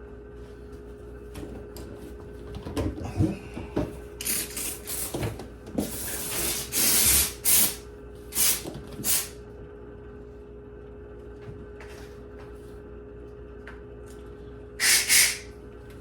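McCulloch steam cleaner letting out short hissing spurts of steam: a run of them between about four and nine seconds in, the longest about a second, and two more near the end, with a few knocks of handling just before the first. A steady low hum runs underneath.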